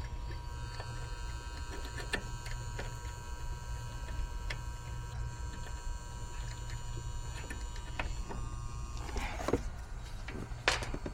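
Steady low machine hum with scattered small clicks and taps of hand work on wiring, and a few brief rustling scrapes near the end.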